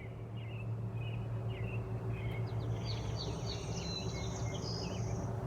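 Hummingbird chirping: a run of short, high, squeaky chirps that grows busier about halfway through, over a steady low hum.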